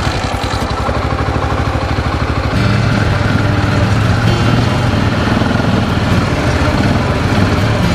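Quad bike (ATV) engine idling with even firing pulses, then growing louder and steadier about two and a half seconds in.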